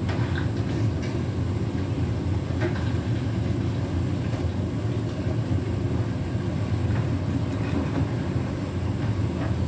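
Beko WTK104121W washing machine drum turning with a steady low rumble, with a few faint clicks, as it tries to distribute an unbalanced load for its intermediate spin.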